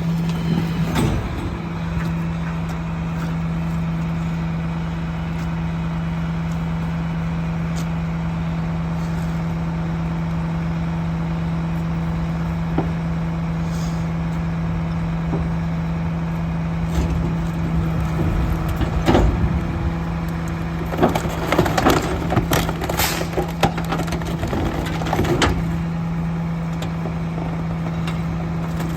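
Garbage truck running with a steady drone, with a spell of clanking and banging about two-thirds of the way through.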